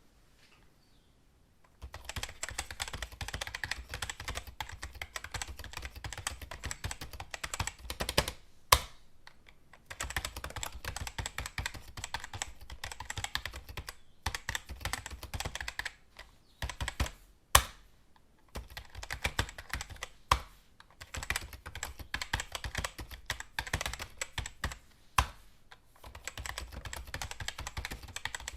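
Typing on a computer keyboard, starting about two seconds in: quick runs of key clicks broken by short pauses, with a few single keystrokes louder than the rest.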